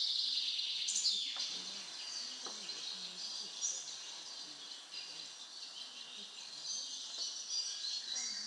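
Recorded birdsong: many short, high chirps and tweets layered together, an opening forest-in-spring sound effect played over the hall's speakers before the dance music starts.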